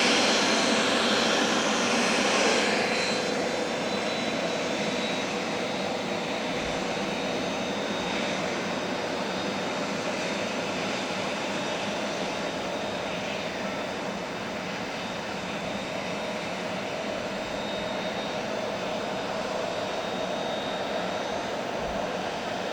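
Twin Williams FJ44 turbofans of a Cessna Citation CJ2 at taxi power: a steady jet whine and rush, louder for the first few seconds, then settling a little lower.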